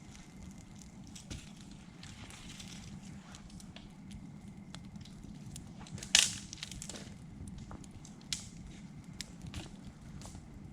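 Campfire of dry birch wood crackling, with scattered small pops and a sharper, louder crack about six seconds in.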